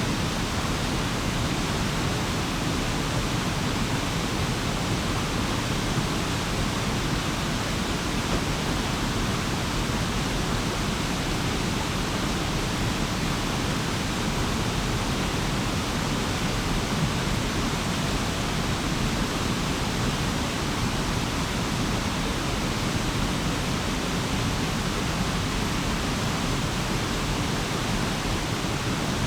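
A stream flowing over stones, a steady, even rush of water.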